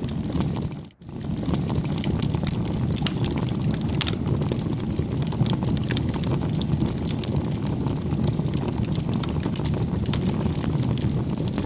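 Bonfire crackling: a steady low rumble of burning with many sharp pops and snaps of wood. The sound dips almost to silence about a second in, then comes straight back.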